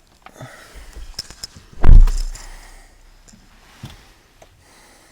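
A series of clicks and knocks, with one loud, heavy thump about two seconds in that leaves a low rumble dying away over about a second.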